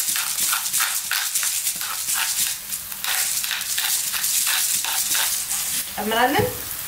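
Onion and garlic sizzling in hot oil in a pan. Over the first few seconds a pepper mill is turned above the pan in a run of quick clicks. A brief yelp comes near the end.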